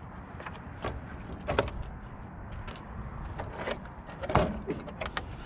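Scattered light clicks and knocks of handling, the loudest about four seconds in, over a low steady rumble.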